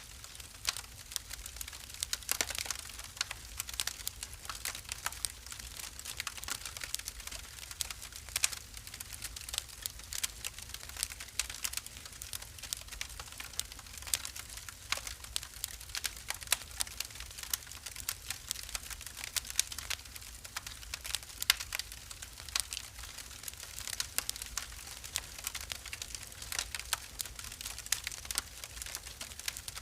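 Wood fire in a fireplace crackling, with many small irregular pops and snaps over a low steady rumble of the flames.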